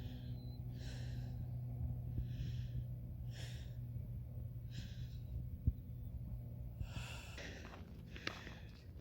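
Short breaths or sniffs repeating about once every second or so, over a steady low hum.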